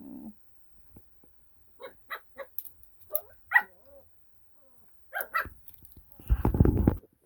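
Puppy barking in a few short, sharp yaps, then a louder, rough burst of noise near the end.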